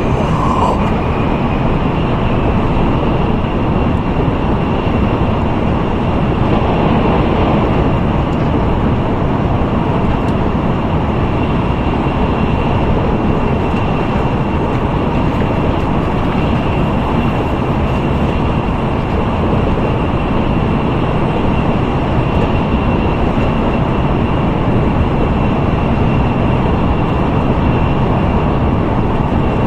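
Steady rumble and rush of an N700A Tokaido Shinkansen heard from inside a passenger car at speed, with a faint steady high whine.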